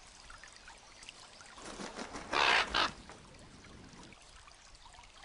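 A young common raven gives one harsh squawk about two seconds in, over the faint trickle of a stream.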